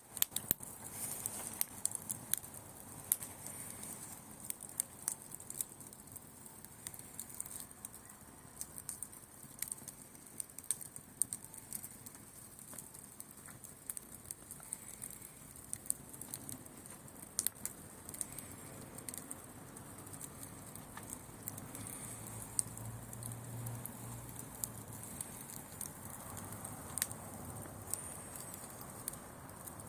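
Wood bonfire crackling, with irregular sharp pops and snaps.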